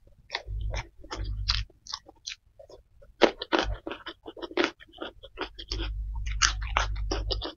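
Close-miked chewing of a mouthful of rice and side dishes, with many short wet mouth clicks and smacks. A low rumble sits underneath about half a second in and again near the end.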